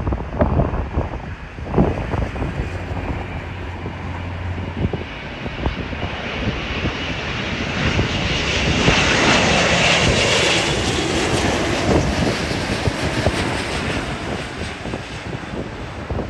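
Landing airliner's engines passing close, the noise swelling to a peak with a high whine about ten seconds in, then fading. Wind gusts buffet the microphone in the first few seconds.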